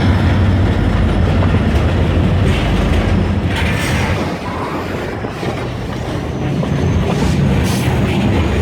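Kiamichi Railroad freight train rolling past, with a heavy low rumble that eases about four seconds in and wheels clicking over the rail joints.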